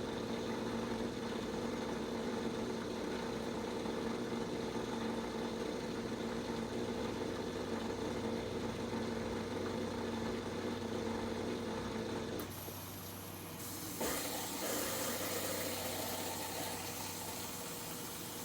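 Portable dishwasher filling with water at the start of its cycle: a steady hum that stops about twelve seconds in, then a click and a steady hiss of running water.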